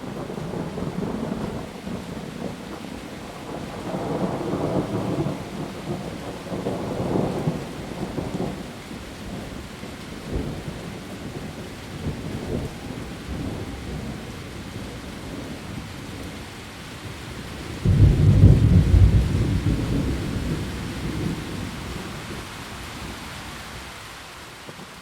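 Heavy rain falling steadily on leaves, with thunder: low rumbles rolling through about four to eight seconds in, then a sudden loud thunderclap about eighteen seconds in that rumbles away over the next several seconds.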